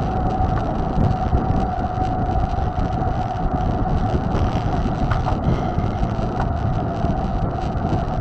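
Wind and rolling noise on a camera riding along on a moving mountain bike: a steady rumble with a steady high whine running through it.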